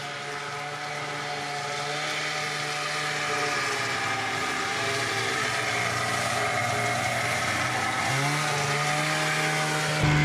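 Two-stroke engine running at a steady speed, its pitch drifting slowly and stepping up slightly about eight seconds in.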